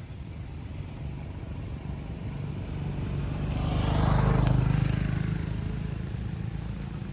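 A motor vehicle passing by: a low engine hum that grows louder to a peak about four seconds in, then fades away.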